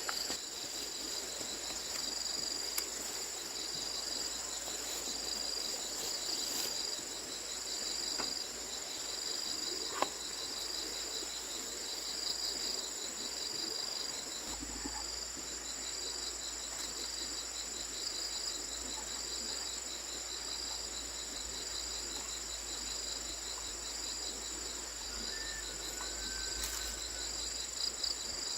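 Insects chirping and trilling steadily. A constant high-pitched buzz runs with a chirp repeating about once a second and a fast pulsing trill, which drops out for a few seconds near the middle. A few faint clicks sound over them.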